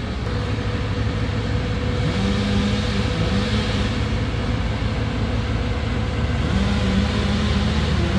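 A large engine running steadily at a constant speed, with a steady whine over its low hum.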